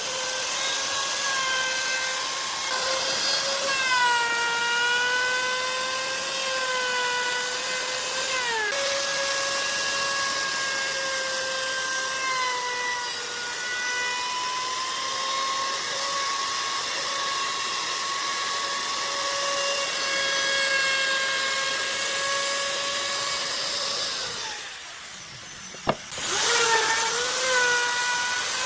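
High-speed electric power tool working wood, its motor whining steadily with the pitch dipping and recovering as it bites under load. Near the end it drops away for a moment, there is a sharp click, and it starts up again.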